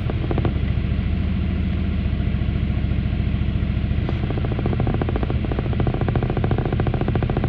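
Drain pump of an LG Inverter Direct Drive washing machine running loudly and steadily with a fast rattling churn, during the rinse and spin cycle. This is one of its repeated on-and-off runs.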